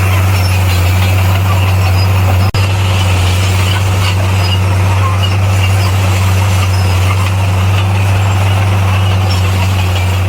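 Bulldozer's diesel engine running steadily at a constant pitch, a deep even hum with machine noise over it. The sound cuts out for an instant about two and a half seconds in.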